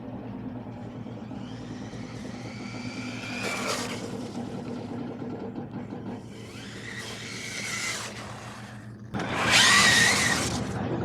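Brushless electric motor of a RLAARLO AM-X12 1/12 RC buggy on a 2S battery whining up in pitch as it accelerates, in several passes. The loudest pass comes about nine seconds in.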